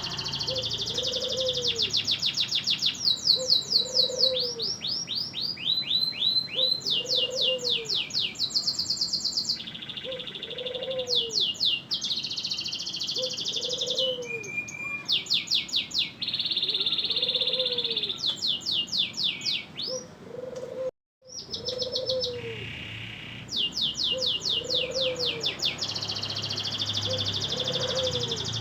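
Domestic canary singing nonstop in long, varied phrases of rapid trills, rolls and sweeping notes. A faint low call repeats underneath about every second and a half, and the sound drops out for a moment about three-quarters of the way through.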